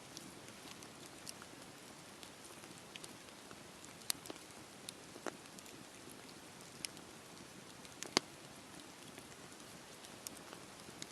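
Campfire burning: a steady soft hiss with scattered sharp crackles and pops, the loudest pops about four and eight seconds in.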